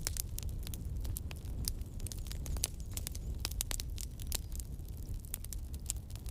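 Campfire crackling: wood popping in many sharp, irregular snaps over a steady low rumble.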